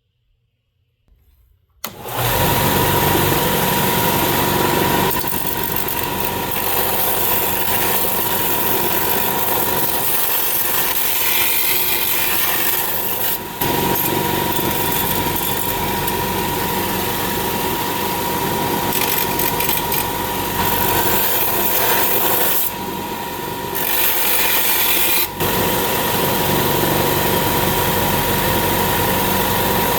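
A power tool switches on about two seconds in and runs steadily with a constant whine, its note changing briefly twice.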